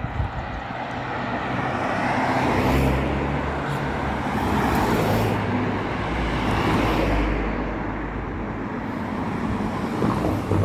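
A motor vehicle passing close by, its engine rumble and tyre noise swelling over a couple of seconds, holding, then easing off.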